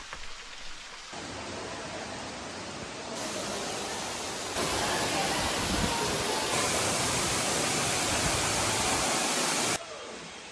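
Waterfall rushing, a steady noise that jumps louder in sudden steps over the first few seconds, stays loudest through the middle and drops back shortly before the end.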